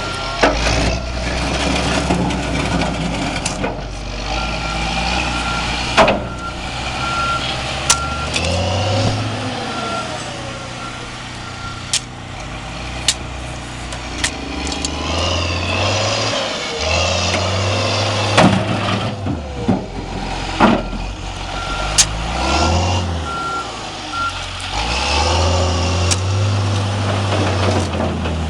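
John Deere 710J backhoe loader's diesel engine running and revving up and down repeatedly, as when working the hydraulics. Its reverse alarm beeps in two spells, and there are several sharp metal clanks.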